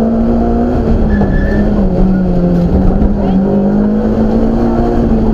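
BMW M3 rally car's engine at high revs, heard from inside the cockpit; the engine note dips for about a second, about two seconds in, then climbs back up as the car drives on.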